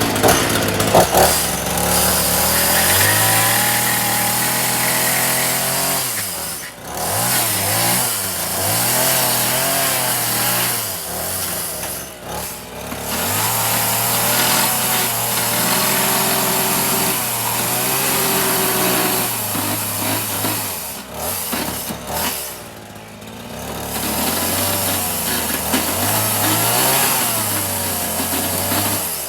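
Chainsaw running and cutting through a 2x4 lip on a wooden shelf, its pitch rising and falling as it is throttled, and dropping back briefly about four times between cuts.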